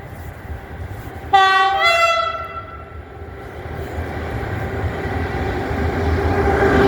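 ET22 electric freight locomotive sounding its horn once, about a second long, stepping from a higher tone to a lower one. The rumble of the approaching train with its coal wagons then grows steadily louder.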